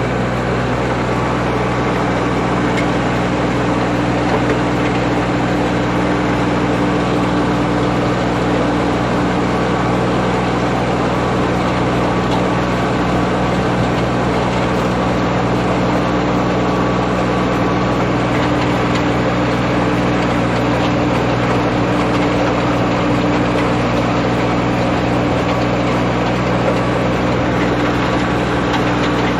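Iseki Geas AT340 tractor's diesel engine running steadily under load, pulling a Nipro wing harrow through a flooded rice paddy.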